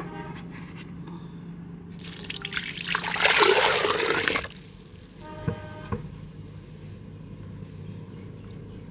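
Mud crumbling and crushing in a pot: a loud crackling, crunching rush lasting about two seconds, building to its peak and cutting off sharply. A short pitched tone and a couple of soft knocks follow, over a steady low hum.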